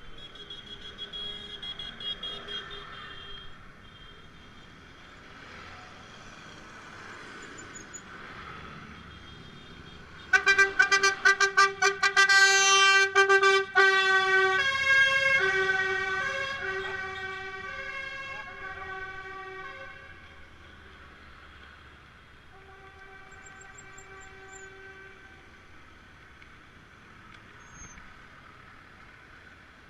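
Tractor horns honking: a loud burst of rapid repeated toots about ten seconds in, then several horns held together at different pitches, fading away over several seconds. Fainter horn blasts come near the start and again later, over a low rumble of traffic.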